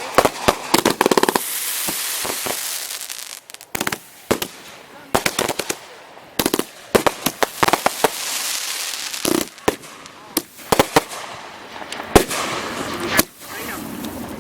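Consumer multi-shot firework cakes going off: a series of sharp bangs, some in quick strings, with stretches of crackling and hissing between them.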